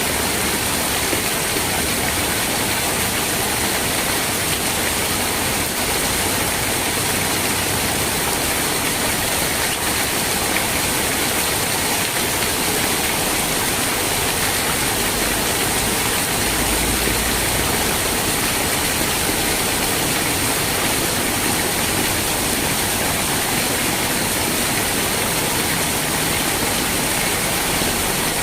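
Steady heavy rain falling, a dense, even hiss with no single drops, thunder or changes in strength.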